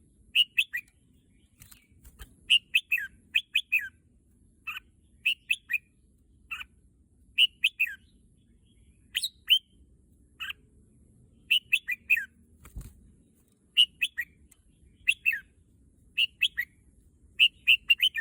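Red-whiskered bulbul singing: short phrases of two to four quick, clear notes, repeated about once a second with brief pauses between.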